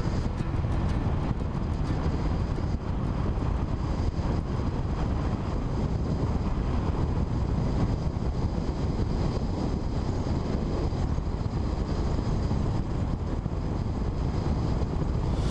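Two-cylinder Honda 250 motorcycle running steadily under way, engine sound mixed with wind noise on the microphone.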